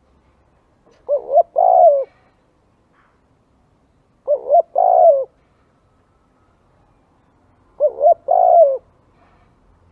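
Spotted dove cooing: three call phrases about three and a half seconds apart, each a couple of short coos followed by a longer one.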